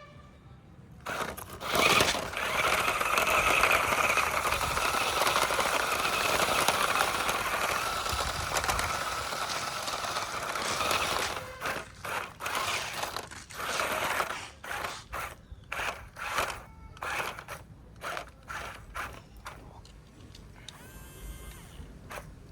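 Small electric motor and plastic gearbox of a toy RC dump truck whirring. It runs steadily for about ten seconds, then in a string of short start-stop bursts.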